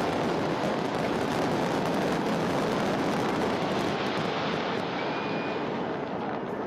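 Large fireworks display: a dense, continuous run of bangs and crackles merging into one steady rumble. The sharp high crackle thins out about four seconds in.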